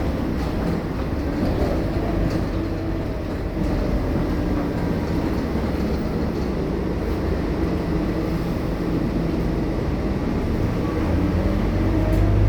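Scania K230UB bus's diesel engine running as the bus drives, a steady low drone whose pitch shifts with engine speed and grows louder near the end.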